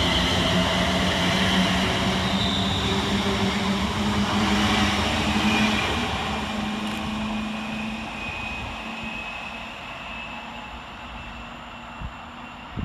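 Two coupled Class 350 Desiro electric multiple units running on the line, with a steady electric hum and a high whine over the rumble of wheels on rail. The sound fades away over the second half as the train moves off. There is a short knock near the end.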